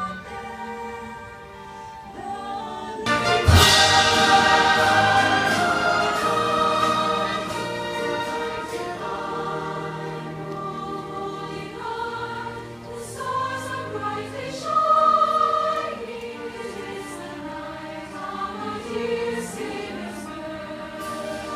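Live choir singing a Christmas carol with an orchestra. The full ensemble comes in louder about three and a half seconds in.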